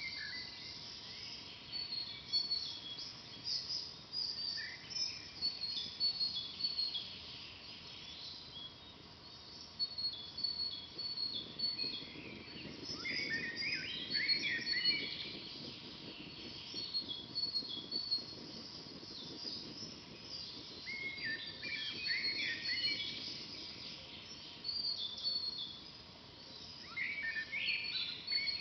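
Several forest birds singing, with high repeated chirps throughout and fuller song phrases about halfway through and again near the end, over a steady low hiss.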